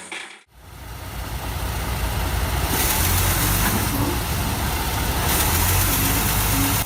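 Heavy diesel engine of an earthmoving machine running steadily with a low rumble and a hiss, fading up after a brief drop-out about half a second in.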